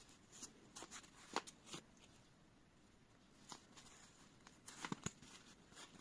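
Faint handling of paper postcards: a few soft clicks and rustles, with two a little louder near the end, over a quiet room.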